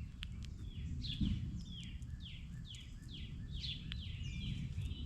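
A songbird singing a rapid series of repeated down-slurred whistled notes, over a steady low background rumble with a few faint clicks.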